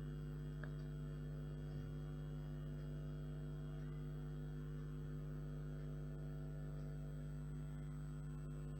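Steady electrical hum, a low buzz with a stack of evenly spaced overtones that does not change; no other sound stands out.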